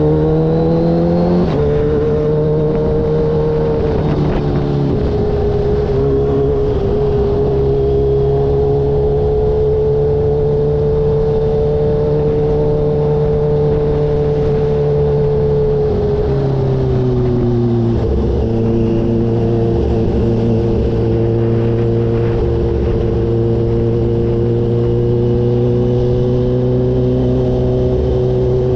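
Kawasaki H2 motorcycle's supercharged inline-four engine under way: the engine note climbs over the first second or so, then holds steady at cruising speed. About 16 seconds in it drops in pitch, then settles at a new steady note from about 18 seconds in.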